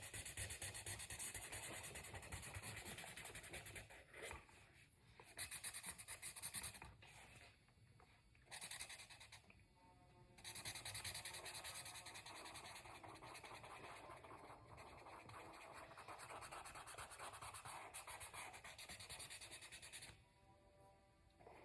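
Colouring stick rubbing and scratching on paper as an area is shaded in with quick back-and-forth strokes, pausing briefly a few times.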